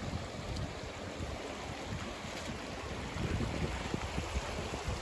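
Steady rush of creek water over small falls, with uneven low rumbles of wind buffeting the microphone that grow stronger in the second half.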